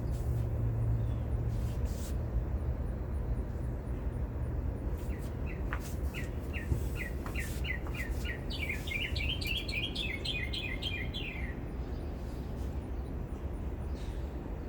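A songbird singing one phrase of short down-slurred whistled notes that speed up into a rapid trill and then stop, lasting about six seconds, over a steady low background rumble.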